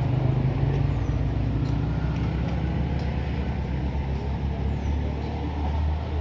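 Truck engine running steadily on a steep climb, its pitch dropping about a second in and holding lower.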